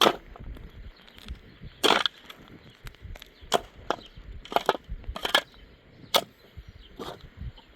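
Repeated sharp blows of a hand tool striking something hard, about seven strikes at uneven intervals, like chopping.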